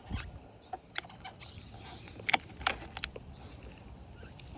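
A few light, irregular clicks and taps of a 10 mm wrench working the door mirror's mounting nuts.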